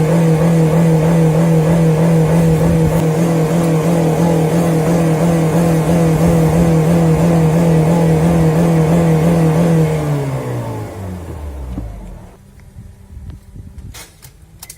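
An engine held at high revs with a steady, loud note. About ten seconds in it is let off, and the revs fall away quickly until it is nearly quiet. Two short clicks come near the end.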